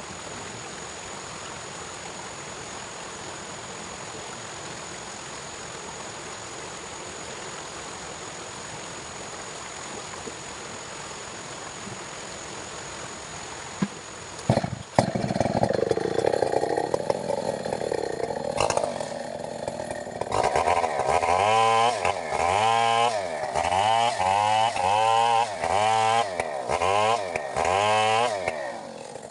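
A steady background hiss, then about halfway through a Stihl 070 two-stroke chainsaw is pull-started, catches and runs. In the last eight seconds it is revved up and down about ten times in a row.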